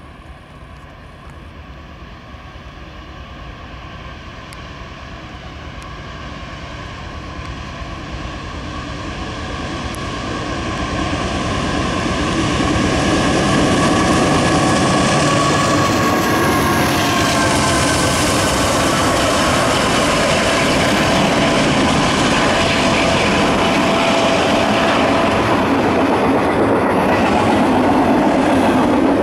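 Union Pacific diesel freight locomotives approaching, growing steadily louder for about twelve seconds, then passing close with their engine tones dropping in pitch. After that comes the steady rolling rumble of double-stack container cars going by.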